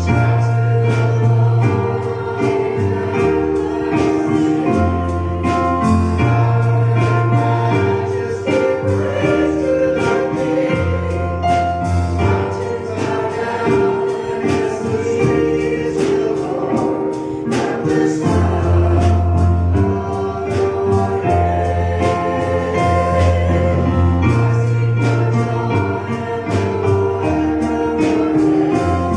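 Live gospel worship song: a choir singing over instruments, with a deep bass line that changes note every second or two.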